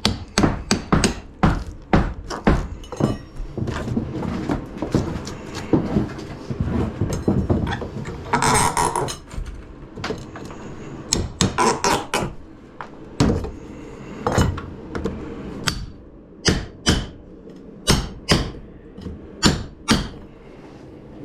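Irregular series of hammer strikes and knocks on wood, some quick in succession, with a brief rasping noise about eight seconds in.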